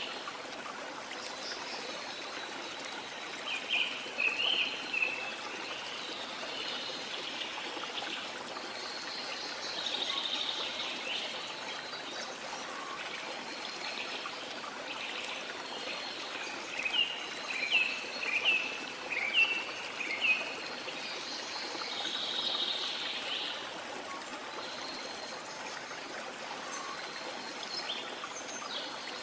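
Steady rush of flowing water, with birds singing over it: a short series of sharp chirps a few seconds in, a longer run of chirps in the middle, and softer warbling phrases in between.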